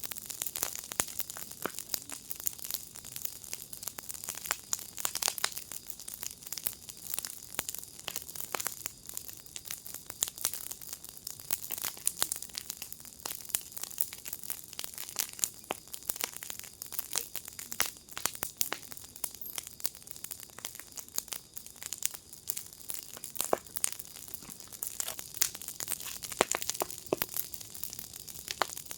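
Fire in a fire pit crackling: a steady hiss with dense, irregular pops and snaps.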